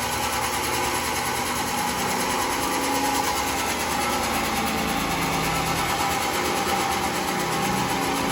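Sawmill machinery running steadily with a continuous high mechanical drone, no pauses or changes in load.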